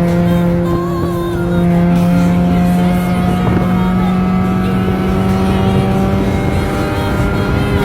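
Opel car engine held at steady high revs through a modified exhaust, with the catalytic converter removed and a valved Varex muffler fitted. It makes a loud, even drone that steps up slightly in pitch about a second and a half in.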